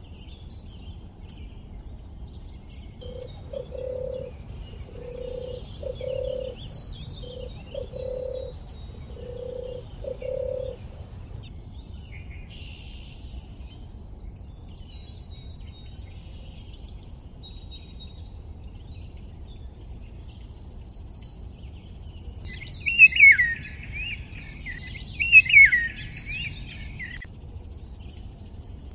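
Birds chirping and calling. There is a run of four low notes of about a second each early on, and two louder whistled calls near the end, over a steady low background rumble.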